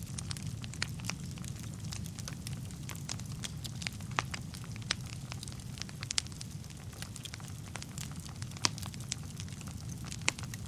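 Wood fire burning in a fireplace: a steady low rumble of flames with irregular sharp crackles and pops from the burning logs, a few louder snaps scattered through.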